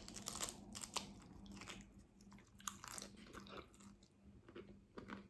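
Close-up crunching and chewing of a hard-shell taco: a run of sharp crisp cracks in the first second, more around three seconds in, with softer chewing between.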